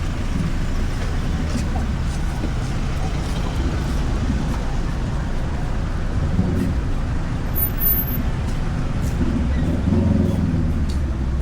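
Steady street traffic on a busy road, cars and other vehicles passing, with snatches of passers-by talking.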